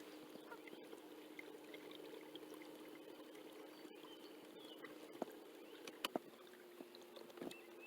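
Faint water trickling around a small inflatable boat, over a steady low hum that shifts slightly higher in pitch near the end, with a few faint bird chirps and light clicks.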